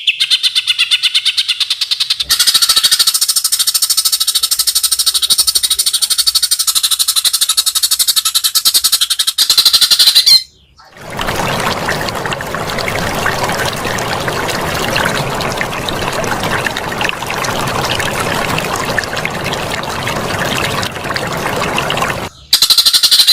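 Songbird recording: a fast, rattling chatter of high notes for about ten seconds, then an even, harsh hissing stretch for about eleven seconds, and the chatter again just before the end.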